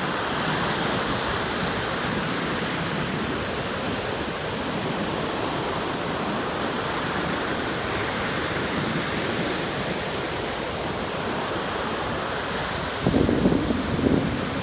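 Atlantic Ocean surf washing steadily onto the shore. Near the end come a few sudden louder low rumbles of wind gusting on the microphone.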